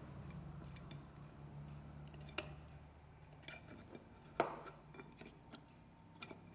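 Small clicks and taps of tools and bulb parts being handled on a workbench, the loudest about four seconds in, over a steady faint hum and a thin high whine.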